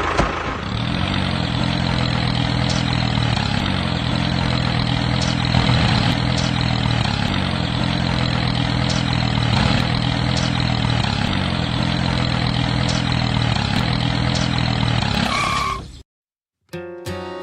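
A tractor engine idling steadily. It cuts off abruptly near the end, and after a moment's silence guitar music begins.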